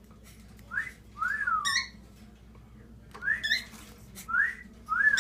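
A cockatiel whistling a phrase of short notes, several of them rising and then sliding down in pitch, with brief pauses between.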